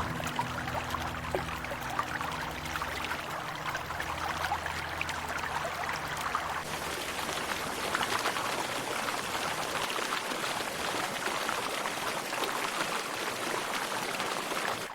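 River water splashing and trickling, with many small splashes running through it, as animals wade into the shallows.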